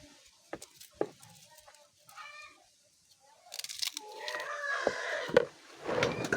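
Domestic chickens clucking, faint at first and louder in the second half, with scattered clicks. A burst of wind noise comes in about three and a half seconds in.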